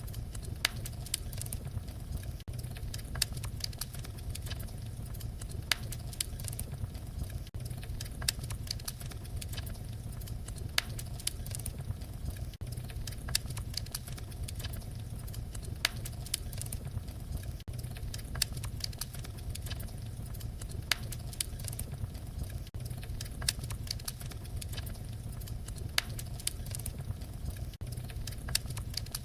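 Wood fire crackling: a steady low rumble of flames with frequent sharp pops and snaps.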